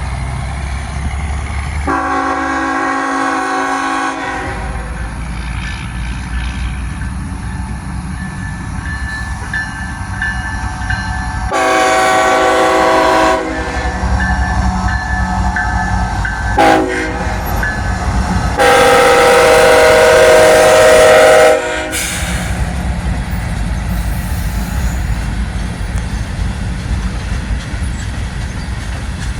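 Nathan K5HL air horn on a CSX ET44AH diesel locomotive sounding the grade-crossing signal: long, long, short, long. Under it runs the steady low rumble of the locomotive and its train.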